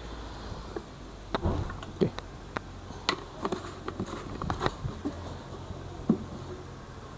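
Scattered light clicks and knocks of an oil bottle and tools being handled while engine oil is poured into a motorcycle engine, over a faint low steady hum.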